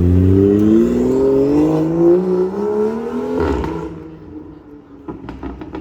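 Supercar engine accelerating hard, its note rising steadily with a quick upshift about two seconds in, then fading as it pulls away. A few short sharp cracks follow near the end.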